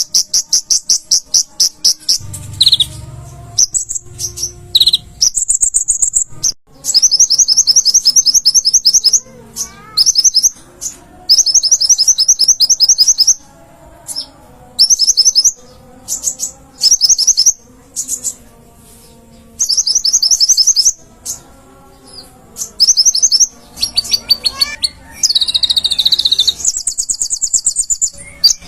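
A konin songbird singing in full voice: bursts of rapid, high-pitched chirping trills about a second long, repeated with short pauses between them.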